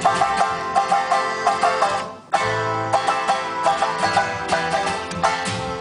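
Live folk-rock instrumental break led by fast banjo picking over strummed guitar, a quick run of plucked notes several times a second. About two seconds in the sound briefly drops away and comes back abruptly.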